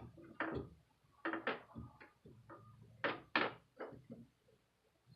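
Clicks and clacks of a small decorative bird cage being handled while a handle is worked back onto it. There are about half a dozen separate sharp knocks, with two close together about three seconds in.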